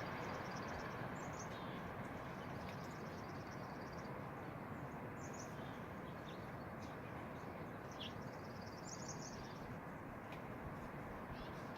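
Steady strong post-blizzard wind rushing. Small birds chirp and trill in short repeated phrases over it.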